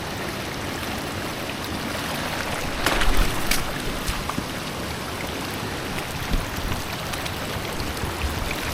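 Floodwater of a swollen creek rushing steadily, with louder splashing about three seconds in as someone wades across.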